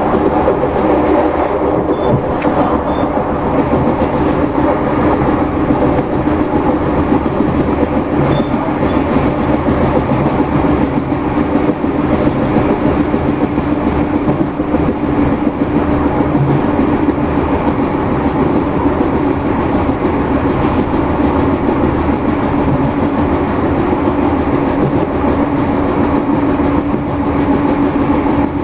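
An Irish Rail 2600-class diesel multiple unit running at speed, heard from inside the coach by an open window. It is a steady, unbroken drone from the diesel engine with its hum held at one pitch, mixed with wind and the wheels running on the rails.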